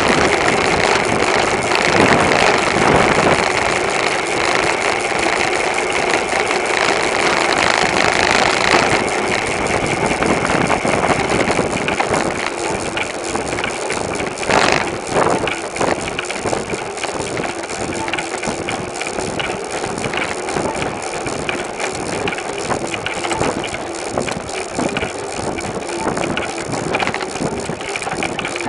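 Riding noise from a bicycle-mounted camera: a steady hum with constant rattling, louder for the first third, and one sharp knock about halfway through.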